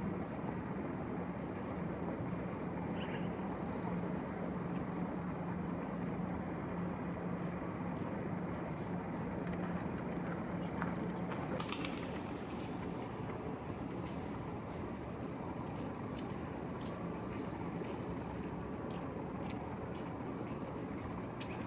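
Strong wind blowing steadily over the microphone, with small birds chirping in many short, high calls throughout. A low steady hum lies under it for about the first half.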